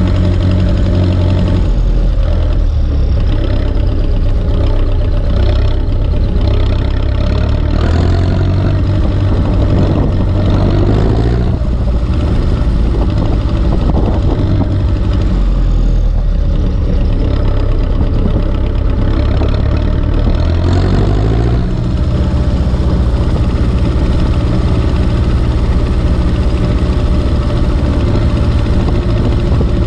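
Turbocharged Ursus C-360 tractor's four-cylinder diesel engine running steadily, its engine speed shifting twice, about a third of the way in and again about two-thirds through.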